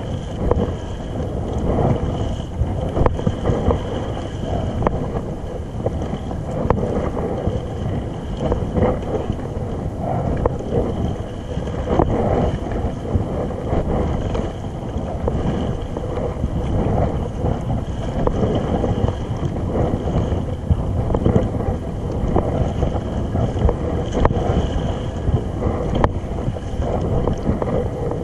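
Wind buffeting the microphone over a steady wash of sea water splashing and lapping around a kayak, with many small irregular splashes throughout.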